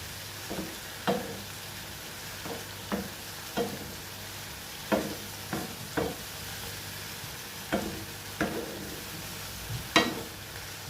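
Mushrooms sizzling in oil in a frying pan, stirred with a utensil that scrapes and knocks against the pan about once a second, loudest near the end.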